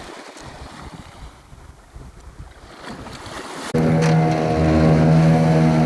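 Wind and water noise around a boat lying still. About two-thirds of the way in, it gives way abruptly to a boat's engine running at a steady cruising speed with an even, unchanging drone.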